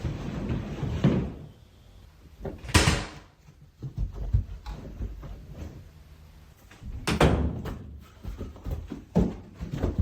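A series of sudden bangs and thuds, the loudest about three seconds in and again about seven seconds in, with smaller knocks between.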